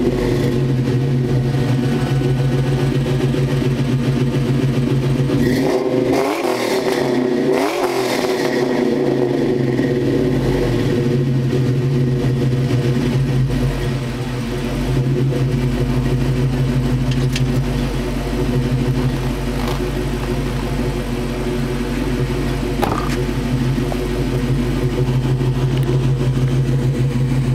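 1999 Ford Mustang GT's 4.6-litre V8 idling through long-tube headers, an off-road X-pipe and Flowmaster cat-back mufflers, with two quick throttle blips about six and eight seconds in before settling back to a steady idle.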